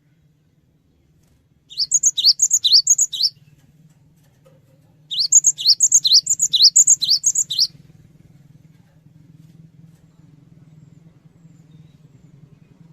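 Cinereous tit (gelatik batu) singing: two bouts of quick, repeated two-note phrases, each a high rising note followed by a higher one, the first bout starting about two seconds in and the second about five seconds in. A faint steady low hum runs underneath.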